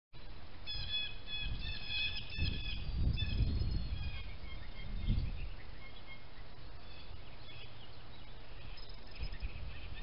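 Small birds chirping in quick bursts of high notes, busiest in the first few seconds and again near the end, with a low rumble of wind buffeting the microphone in a few gusts.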